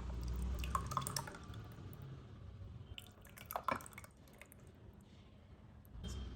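A few light, drip-like taps and clinks over a low hum, with the loudest cluster about three and a half seconds in.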